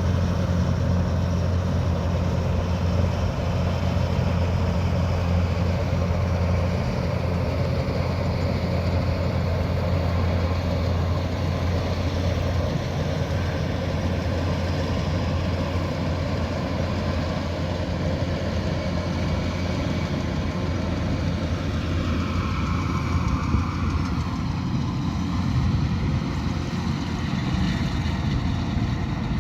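Kubota DC108X combine harvester running continuously: a steady diesel engine drone mixed with the noise of its threshing and cutting machinery. A higher whine falls in pitch about three-quarters of the way through.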